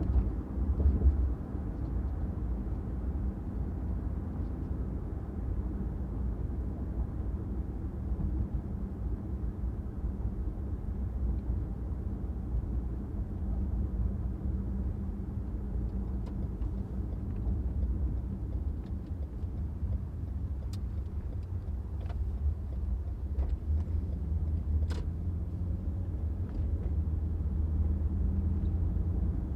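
Steady low rumble of a car driving on city streets, with a brief swell about a second in and a few faint clicks in the last third.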